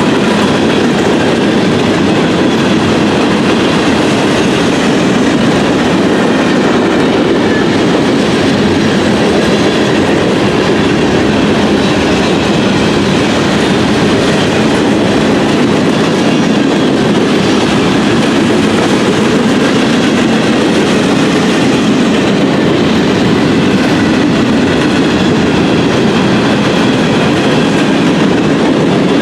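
Train cars rolling past on the rails: a loud, steady noise of wheels on track that keeps going without a break.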